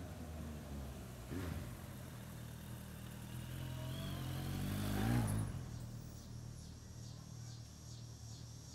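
2003 Suzuki Bandit 1200's inline-four through a Delkevic Stubby 14-inch carbon-fibre oval muffler, heard while riding. The engine note rises to its loudest about five seconds in, then eases back to a steady run.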